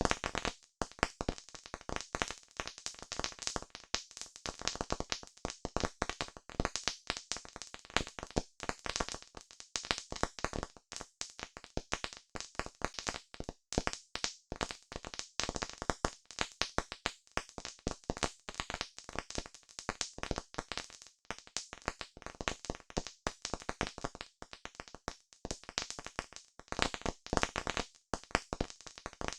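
Wood fire crackling steadily: a dense, irregular stream of sharp pops and snaps over a soft hiss, with no flame roar.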